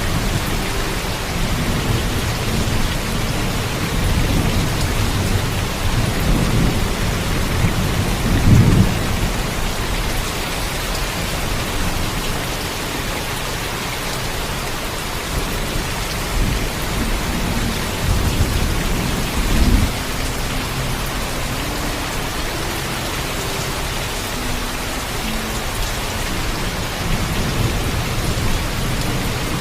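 Steady heavy rain with low rolling thunder rumbles, the strongest about nine seconds in and another around twenty seconds.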